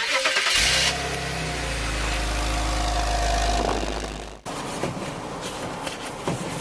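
BMW engine cold-started: the starter cranks for about half a second, then the engine catches and runs at a steady, fast cold idle. The engine sound cuts off suddenly about four and a half seconds in, giving way to fainter noise.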